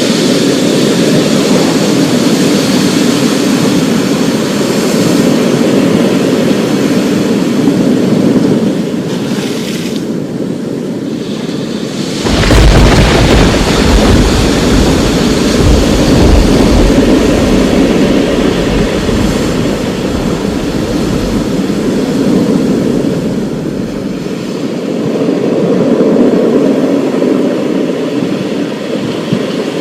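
Thunderstorm: a steady rushing of rain and wind, with a sudden clap of thunder about twelve seconds in that rumbles deeply for about ten seconds before fading.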